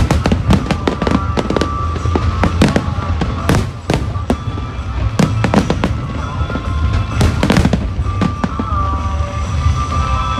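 Fireworks display in full swing: a rapid, irregular string of bangs and crackling bursts over a low rumble, with music playing underneath.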